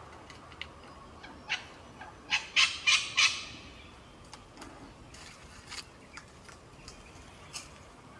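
A bird giving a quick run of loud, harsh calls about two to three seconds in, with fainter short clicks and chirps before and after.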